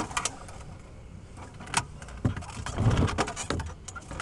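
An old lawnmower's small engine firing briefly and cutting out just at the start, failing to keep running on a cold start. Then a few scattered clicks and knocks, loudest about three seconds in.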